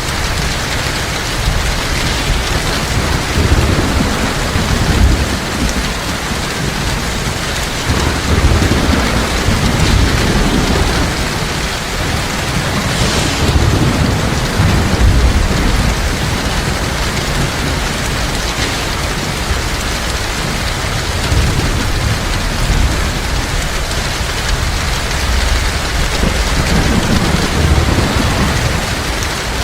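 Heavy, steady rain with low rumbles of thunder swelling and fading several times.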